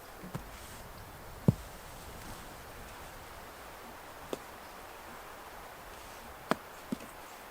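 Five sharp, irregularly spaced knocks over a faint steady background; the loudest comes about a second and a half in, and two fall close together near the end.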